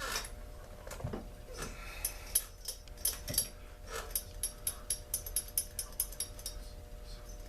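Ratchet wrench clicking while loosening fasteners on a chainsaw, with scattered knocks of metal parts and a quick even run of clicks, about five a second, in the second half.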